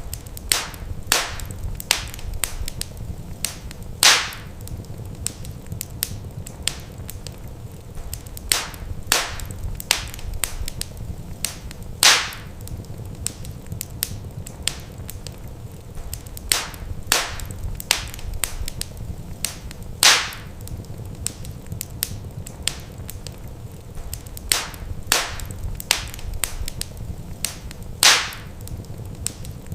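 Wood fire crackling in a fireplace: sharp snaps and pops over a low steady rumble, with a louder pop about every eight seconds as the same pattern of crackles repeats.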